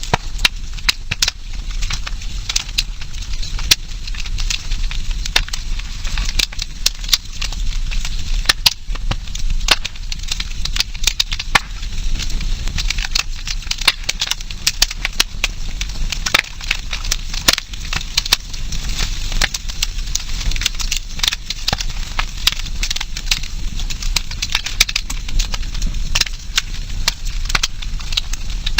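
Wood campfire burning, crackling and popping irregularly over a steady low rumble.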